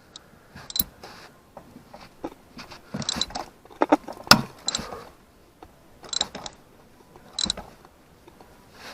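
Socket ratchet clicking in short bursts of back-and-forth strokes as a tight, stuck spark plug is worked out of the cylinder head, with one sharper, louder click about four seconds in.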